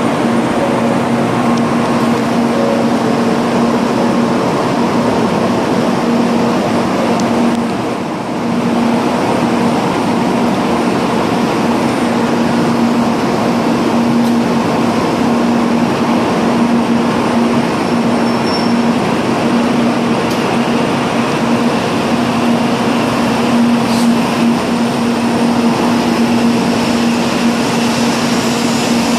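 N700A Shinkansen train at the platform: a steady mechanical hum with a constant low drone, dipping briefly about eight seconds in.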